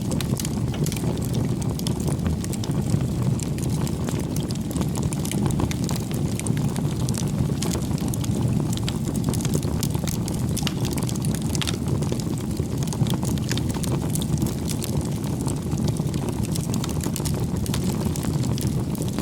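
Bonfire burning steadily: a low rumble of flame with many small, quick crackles and pops of burning wood throughout.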